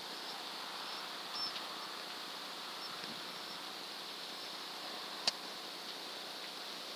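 Steady hiss with one sharp, short click a little past five seconds in.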